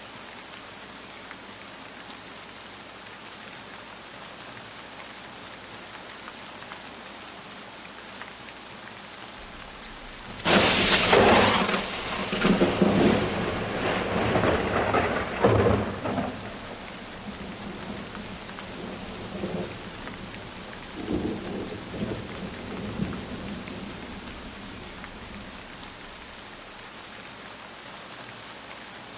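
Steady rain falling, with a sudden loud thunderclap about ten seconds in that rolls on for several seconds, then a few softer rumbles before only the rain is left.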